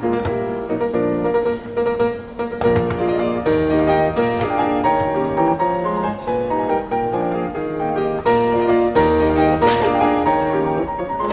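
Piano music playing, slow held chords and notes.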